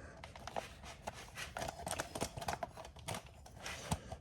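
Irregular small metal clicks and rattles as a chain break tool is fitted and adjusted on a motorcycle drive chain.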